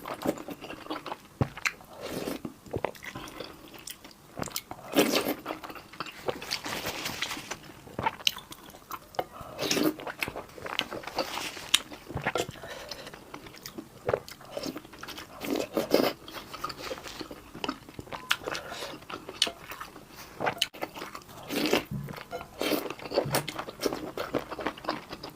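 Close-miked eating: a person biting into and chewing crisp food, crunching in irregular bursts separated by short pauses.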